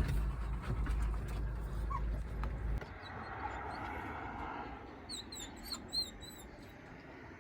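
A low vehicle rumble that cuts off about three seconds in, then a dog whimpering in a few short, high whines.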